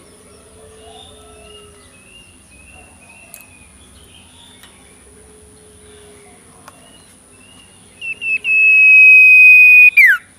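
Faint short chirps from a young caged bird, then near the end a few quick notes and a loud, steady, high whistle held for about a second and a half, ending in a sharp downward slide.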